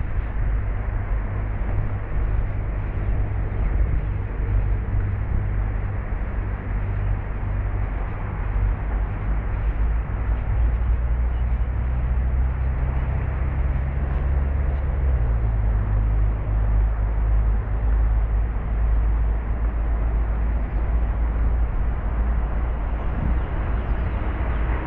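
A steady low engine rumble with a drone whose pitch rises slightly and then drops about fifteen seconds in, over a constant outdoor hiss.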